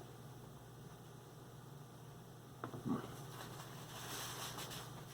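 Steady low electrical hum, with a soft knock about three seconds in and faint crackly rustling after it.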